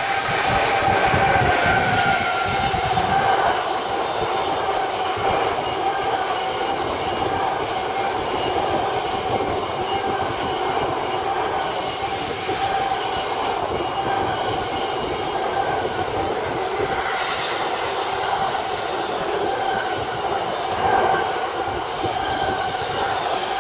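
A long train rolling past at trackside, its wheels clattering over the rails, with a steady high ringing squeal from the wheels.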